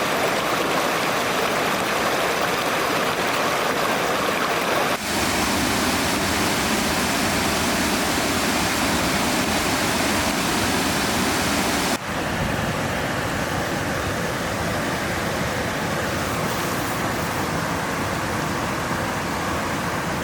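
River water flowing with a steady rush. The sound shifts abruptly twice, about five and twelve seconds in, becoming duller and fuller in the low end after the second change.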